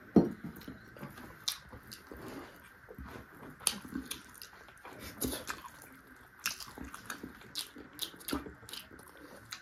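A person eating chicken feet close to the microphone: wet chewing with irregular clicks and small crunches, the sharpest bite just after the start.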